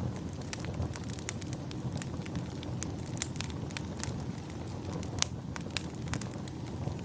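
Wood fire in a fireplace crackling: irregular sharp pops and snaps over a steady low rush, with one louder pop about five seconds in.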